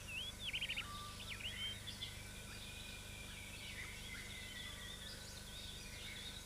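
Forest birds calling over a faint low hum. Short hooked whistled notes come in a quick run in the first second, then a long faint sliding whistle follows over the next few seconds, with scattered chirps.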